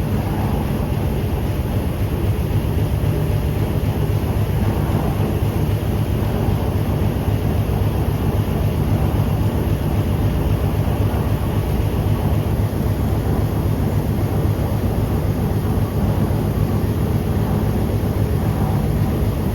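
A diesel train running steadily: a low, even engine drone under a constant rushing noise, with no change in pace.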